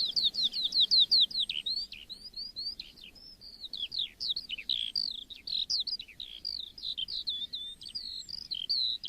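Skylark song: a long, unbroken, high warble of rapid chirps and trills. It opens with a quick run of repeated notes that is the loudest part, then goes on in varied, jumbled phrases.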